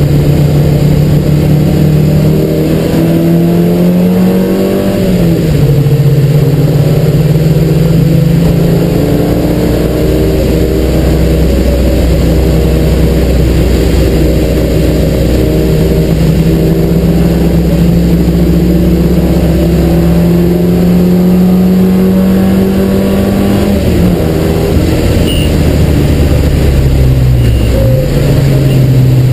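Triumph Spitfire race car's four-cylinder engine heard from inside the cockpit, pulling hard with its pitch climbing. About five seconds in the pitch drops sharply at an upshift, then climbs slowly through a long pull. Near the end it falls and dips as the car comes off the throttle.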